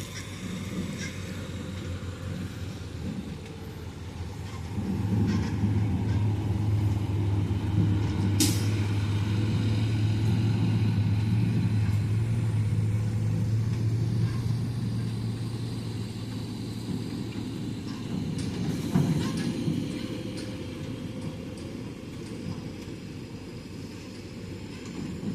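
Heavy diesel harvest machinery running, growing louder about five seconds in and easing off after about fifteen seconds, with a brief sharp click about eight seconds in.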